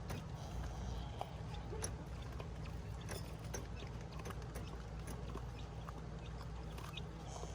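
Button quail pecking at food on a hard surface: irregular light clicks and taps over a steady low hum.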